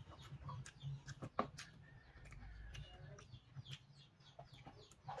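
Faint bird calls with scattered soft clicks and smacks from eating at the table, one sharper click about a second and a half in.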